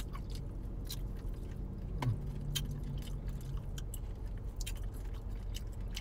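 Close-up chewing and wet mouth clicks of someone eating chicken wings, with a brief low hummed 'mm' about two seconds in.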